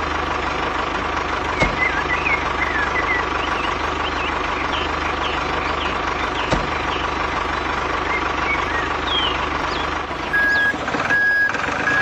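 Truck engine running steadily, with faint bird chirps over it. Near the end a reversing alarm beeps three times, evenly spaced.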